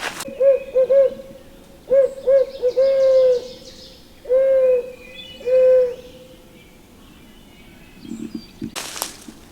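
Barred-owl hooting blown loud and close on an owl locator call. It runs as a quick burst of short hoots, then a run of hoots ending in two long, drawn-out notes. It is the classic turkey hunter's owl hoot, used to startle roosted gobblers into gobbling. A brief rustle comes near the end.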